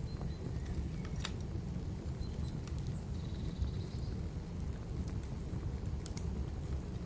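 Wood fire crackling, with a few sharp pops over a steady low rumble; a brief high chirp sounds a little after three seconds in.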